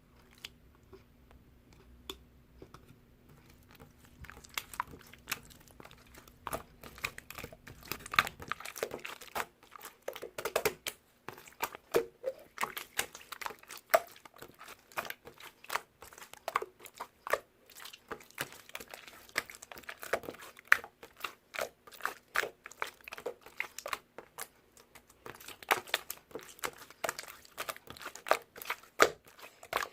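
Clear slime being squished and stretched by hand, making a quick, irregular run of wet clicks, pops and crackles. It starts sparse, grows busy after several seconds and pauses briefly about three quarters of the way through.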